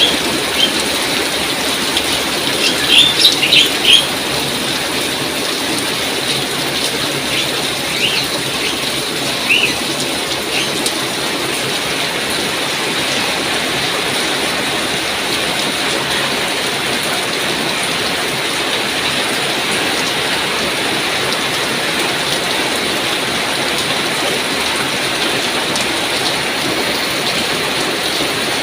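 Steady, heavy rain falling. A bird chirps a few times, quickly, about three seconds in, and again briefly around eight to ten seconds in.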